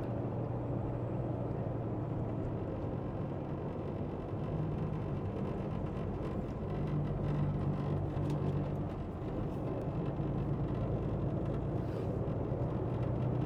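Semi-truck diesel engine running steadily with road noise, the engine tone shifting a little partway through.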